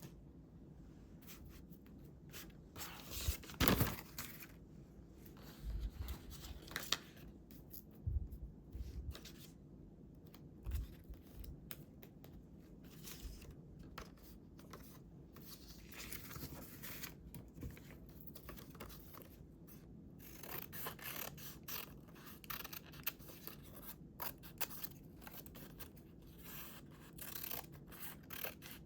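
Scissors cutting paper in a run of short snips, with paper being handled in between; the loudest sound is a brief burst of paper noise about four seconds in.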